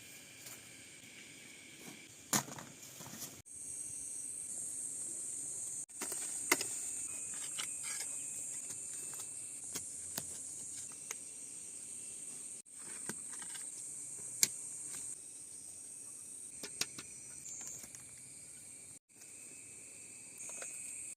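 Steady high-pitched insect chorus with a few sharp clicks, breaking off abruptly several times.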